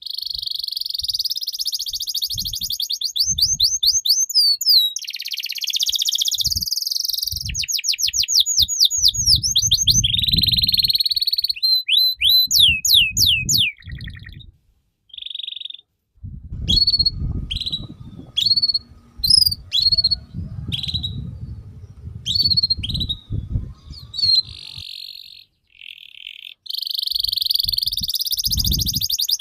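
Songbird singing energetically: fast, high buzzy trills and rapid runs of repeated sweeping notes, nearly nonstop with a short break about halfway, the kind of 'gacor' song used to set other songbirds singing. A low rumbling noise sits under the song in its second half.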